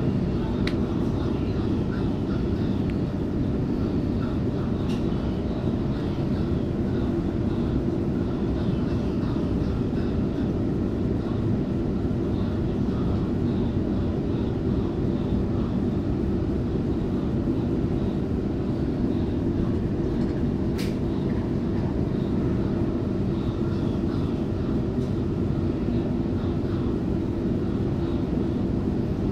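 Steady running noise inside a moving Waratah Series 2 electric train: a low rumble of wheels on track with a faint steady hum, and a sharp click about two-thirds of the way through.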